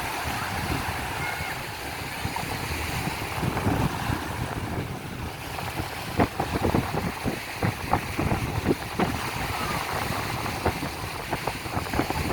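Sea surf washing on a beach, with wind buffeting the microphone in short rumbling gusts that grow more frequent about halfway through.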